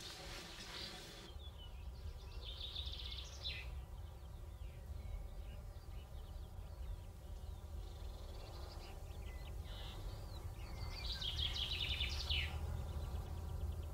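Birds chirping in two spells of quick twittering calls, the second longer, over a steady low rumble of outdoor ambience.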